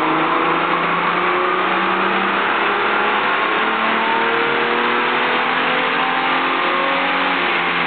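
Holden VR Commodore's stroked 4.3-litre Buick V6 under load on a chassis dyno, its revs climbing slowly and steadily through a pull, over a steady rush of noise.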